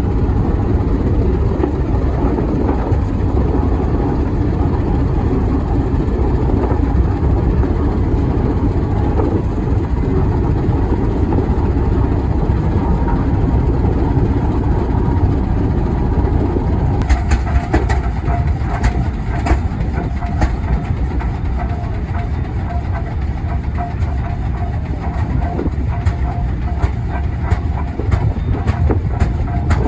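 Steady low rumble of heavy antique machinery running, with a rapid clatter and a faint steady whine joining about 17 seconds in.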